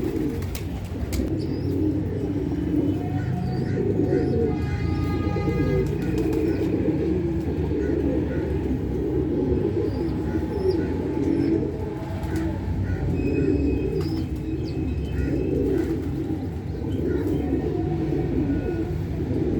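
Many pigeons cooing at once in a continuous, overlapping chorus, with scattered short chirps from smaller birds.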